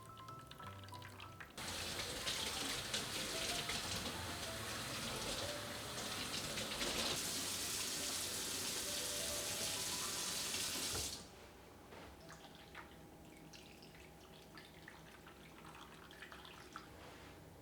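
Water running from a tap into a sink, turned on about a second and a half in and shut off after about ten seconds.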